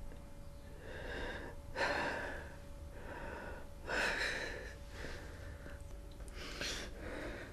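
A man sobbing: a run of ragged, gasping breaths, one every second or so.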